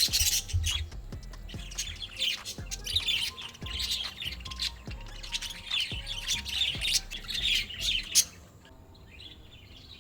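Birds chirping, with music and a low bass beat under them; about eight seconds in the sound cuts off abruptly, leaving fainter, sparser birdsong.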